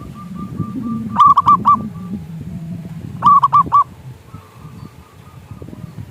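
Zebra dove calling: runs of short, clipped cooing notes, with two loud groups of three quick notes about two seconds apart and fainter notes trailing off after them.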